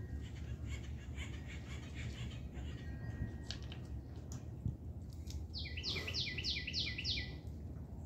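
A songbird singing a quick run of about seven down-slurred notes, each sweeping down in pitch, lasting under two seconds and starting about five and a half seconds in, over a steady low rumble.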